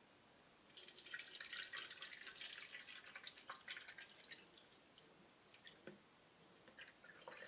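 Water poured into the 2.8-litre water tank of an ultrasonic humidifier through its filler opening, splashing for about three seconds from about a second in, then thinning to scattered drips.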